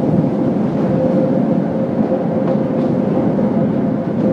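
A train running on the rails: a steady rumble of wheels on track with a thin, steady whine held throughout.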